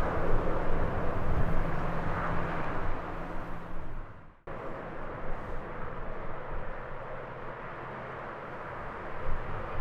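Jet engine noise from a Boeing 777F freighter: a steady engine haze with a low tone under it. About four seconds in it drops out abruptly, then returns quieter and steady.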